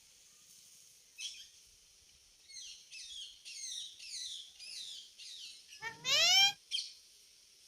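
Indian ringneck parrot chirping: a run of quick, high, falling chirps, then one louder and longer call that rises in pitch, followed by a short chirp near the end.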